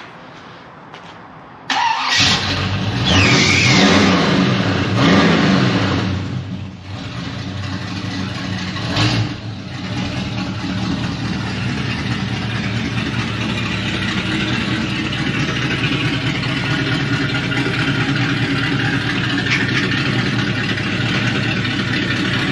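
1966 Pontiac GTO's V8 engine starting, catching suddenly about two seconds in and revving up and down a few times, with one sharp blip of the throttle near nine seconds, then settling into a steady idle.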